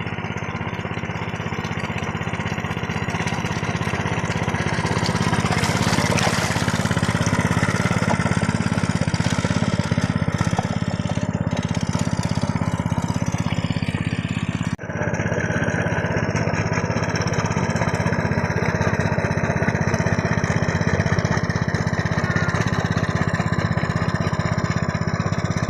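Two-wheel hand tractor's engine running steadily under load, with a brief dropout about halfway through before it carries on.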